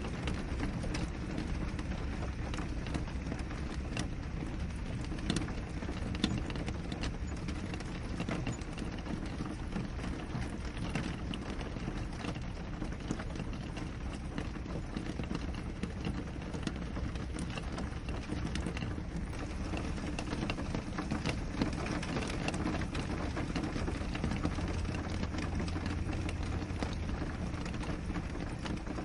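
Steady rain on a window pane, a dense patter of many small drop ticks over a low, even rumble.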